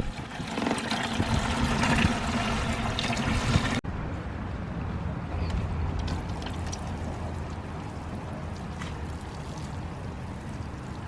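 Liquid pouring into a container: worm-bin tea being transferred and diluted with water. It breaks off suddenly about four seconds in and goes on as a quieter steady pour.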